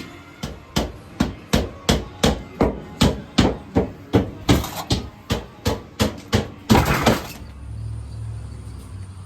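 Hammer striking in a fast, even rhythm, about two and a half blows a second for some six seconds. It ends in a short burst of noise, followed by a low steady hum.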